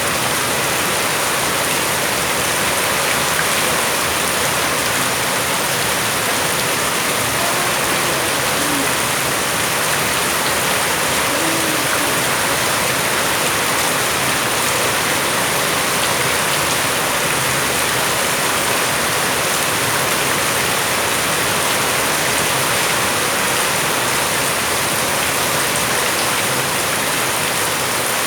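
Heavy rain falling steadily, a continuous even hiss of drops on the ground and surfaces.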